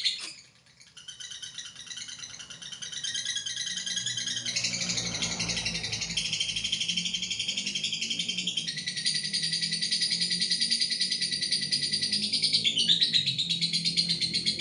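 Lovebird giving a long, continuous 'ngekek' chatter: a fast, rattling stream of high notes. It starts about a second in and shifts pitch several times without a break.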